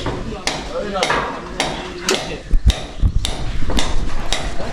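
Steady hammering, about two blows a second.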